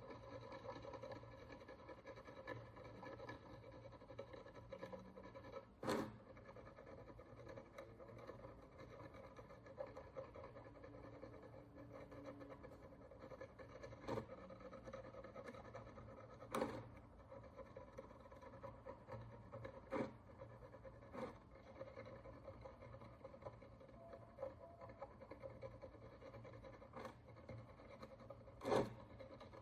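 Fine scratching of a tool working the encrustation off a bronze Roman coin under magnification, faint and continuous over a steady low hum. A few sharp clicks cut in, the loudest near the end.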